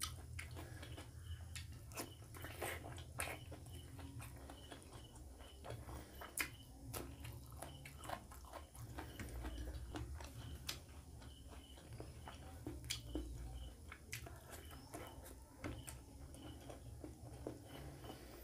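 Close-miked chewing and wet mouth sounds of a person eating egg curry and rice by hand: many small, irregular clicks and smacks. A low steady hum runs underneath.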